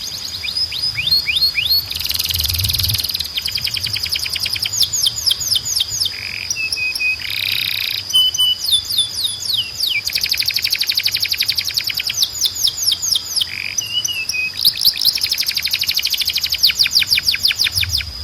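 Domestic canary singing: fast trills of rapidly repeated falling notes, alternating with buzzy phrases and short flat whistles. A steady thin high tone runs underneath the song.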